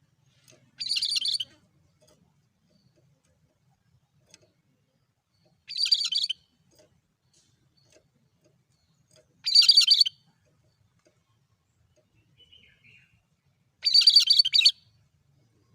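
Cucak kerinci calling: four short, high-pitched bursts of rapid chattering notes, each well under a second long and about four seconds apart, in a monotonous rhythm.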